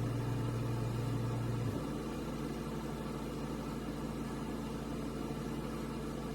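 Steady low background hum over a faint hiss. Its lowest tone drops away about two seconds in.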